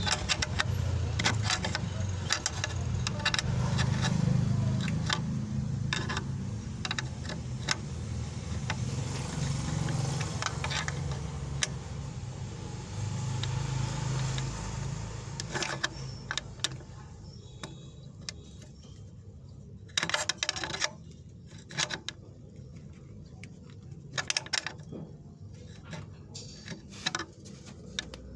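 Repeated clicks and metallic rattles of handling parts and tools, over a low running rumble that fades away about halfway through.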